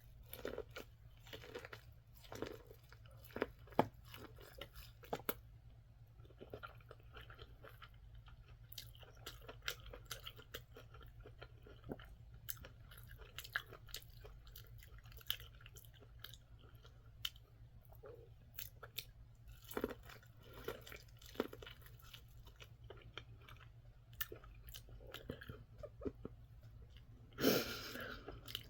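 Close-miked chewing and crunching of food, with many small, irregular mouth clicks and smacks. A brief louder sound comes near the end.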